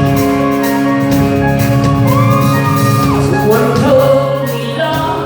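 Live band music with singing, over held chords and a steady beat, amplified in a large hall. A high, held shout or whoop comes about two seconds in.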